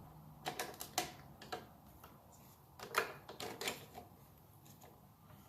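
Light clicks and clinks of small metal engine parts being handled and fitted, in small irregular groups.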